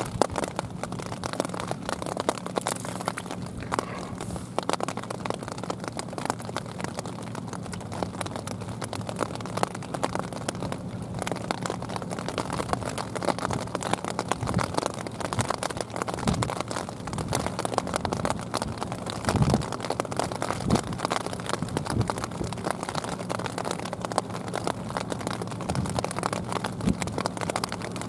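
Steady rain pattering close by, a dense run of small drop ticks, over a low steady hum.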